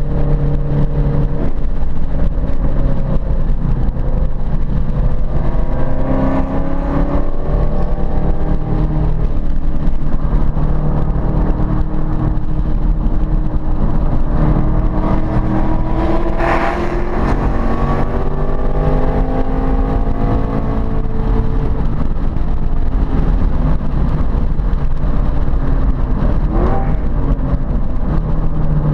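Ford Boss 302's V8 engine being driven hard around a road course: revs climb and fall again and again through gear changes and corners. There is a brief sharp noise about halfway through.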